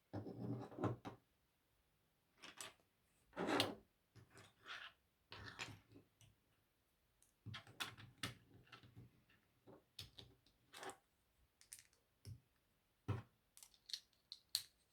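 LEGO plastic pieces being handled and pressed together: irregular small clicks and short rustles with quiet gaps between.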